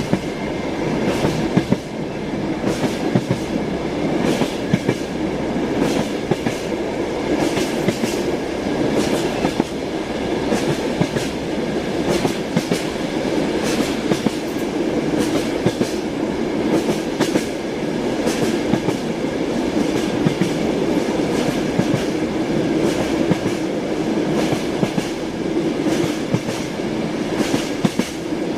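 Train running along the track: a steady rumble with the wheels clattering over rail joints, many sharp clicks throughout.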